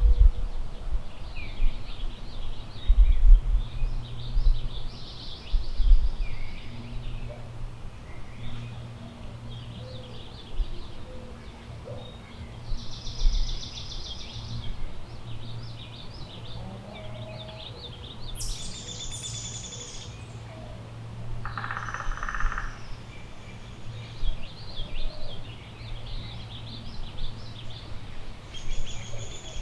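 Several wild birds chirping and trilling in woodland, many short calls overlapping, with gusts of wind rumbling on the microphone, loudest near the start and again a few seconds in.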